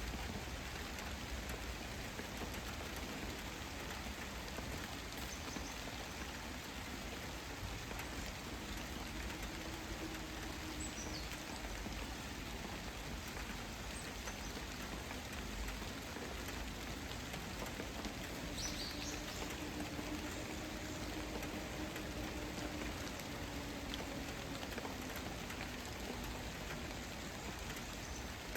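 Steady rain falling and pattering on surfaces. A couple of faint, high bird chirps come through the rain, about a third of the way in and again past halfway.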